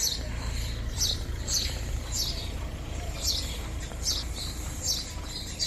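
A small songbird giving short, high chirps, about one a second, each a quick downward sweep, over a steady low background rumble.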